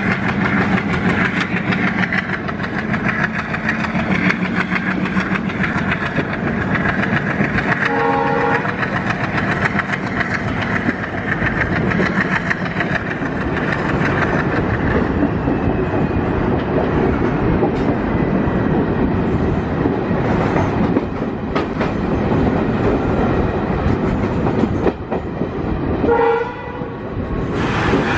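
Passenger train running at speed, heard from an open coach door: steady wheel-and-rail noise with clickety-clack. A train horn sounds briefly twice, about a third of the way in and again near the end.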